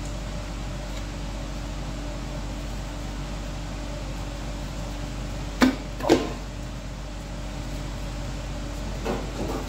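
Hand tools knocking against the metal of an old engine block being taken apart: two sharp knocks about half a second apart a little past the middle and a few lighter ones near the end, over a steady low hum.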